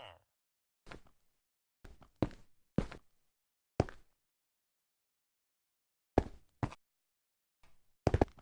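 A series of short knocks or thumps, about nine, unevenly spaced, with a pause of about two seconds in the middle.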